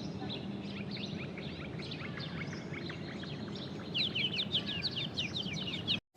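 Small birds chirping: a scatter of short, high, falling chirps over a steady background hum, turning into a quicker run of chirps over the last two seconds before the sound cuts off suddenly.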